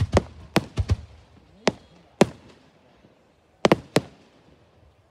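Aerial fireworks going off in about ten sharp bangs. The bangs come in irregular clusters: five in the first second, two single bangs about 1.7 and 2.2 seconds in, and a quick group of three around 3.7 seconds in.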